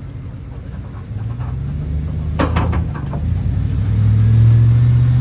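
Truck engine revving up and running hard under load while pulling a stuck truck out of a muddy rut on a recovery rope, getting louder from about a second in and loudest near the end. A quick rattle of several sharp knocks about two and a half seconds in.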